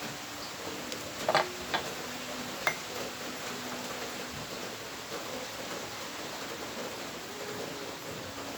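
A few light metallic clicks and clinks of small engine parts and tools being handled, three sharp ones between about one and three seconds in, over a steady hiss of rain.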